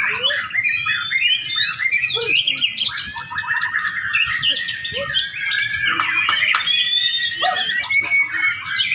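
White-rumped shama (murai batu) singing a long, unbroken run of varied whistles, chirps and quick trills.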